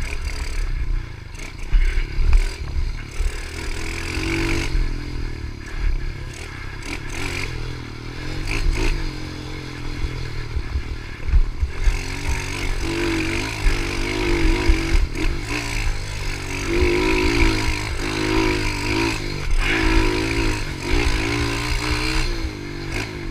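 Pitbike's small single-cylinder engine running under way, its pitch rising and falling as the throttle is worked, livelier from about halfway. Frequent rattles and knocks, with a heavy low rumble underneath.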